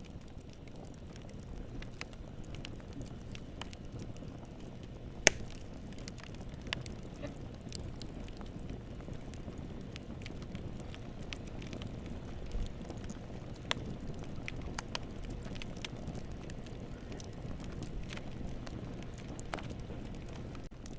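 Fire in a fireplace burning with a steady low rumble and scattered sharp crackles and pops. The loudest pop comes about five seconds in.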